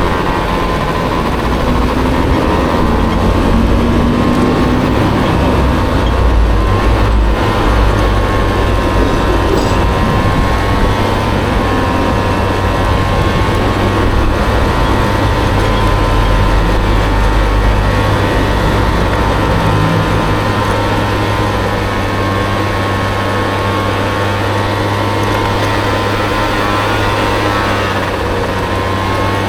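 Small Honda Dio scooter engine in a Honda Motocompo running steadily while riding, its note drifting gently up and down with the throttle over a constant low rumble.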